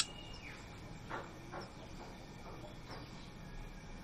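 A few faint, sparse chirps from caged sirtu birds, with a short falling note near the start, over a low background.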